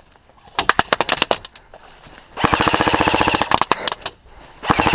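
Airsoft guns firing rapid full-auto bursts, the gearbox cycling quickly over a steady motor tone: a short burst about half a second in, a longer one of nearly two seconds in the middle, and another starting near the end.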